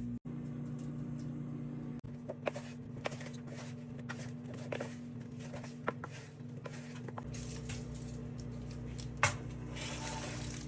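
Air fryer running with a steady electric hum, with scattered light clicks and taps and one sharper knock near the end.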